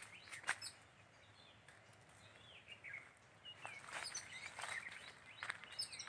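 Birds chirping faintly, with short downward-sliding calls repeated at intervals, and a few short crackles between them.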